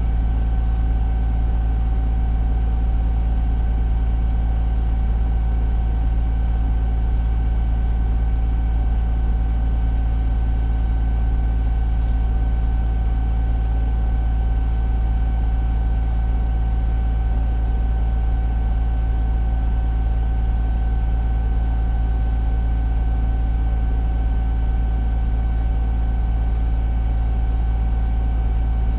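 Fire engine's engine running steadily with a deep drone and a constant high whine, heard from inside the cab.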